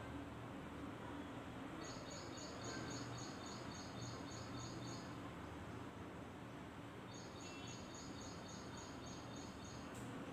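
A small bird chirping in quick even runs, about four high chirps a second, in two bursts of a few seconds each, over a low steady room hum.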